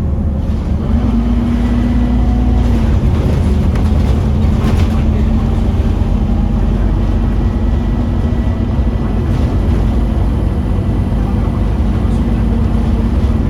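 Scania OmniCity double-decker bus's five-cylinder diesel engine working hard: a steady low drone with a thin high whine over it, the uploader's "hoovering thrash". The engine note rises about a second in and drops back a couple of seconds later.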